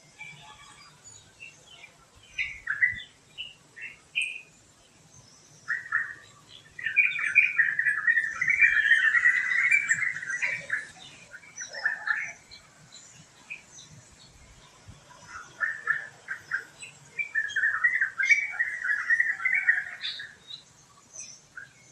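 Birds chirping: scattered short calls early on, then two long runs of rapid, chattering song, one starting about seven seconds in and another about fifteen seconds in.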